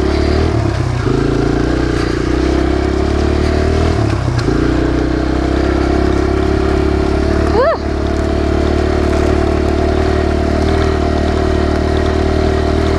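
Kawasaki KLX140 dirt bike's air-cooled four-stroke single-cylinder engine running steadily while being ridden, its note dipping briefly twice in the first few seconds as the rider eases off.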